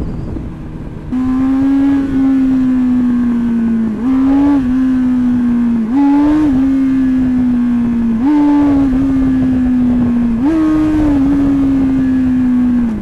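Sportbike engine revved hard and held at high revs. Its pitch sags slowly and is kicked back up by a burst of throttle about every two seconds.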